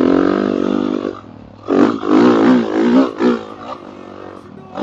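Dirt bike engine revving hard in two bursts, the pitch swinging up and down as the throttle is worked, the first about a second long and the second about a second and a half.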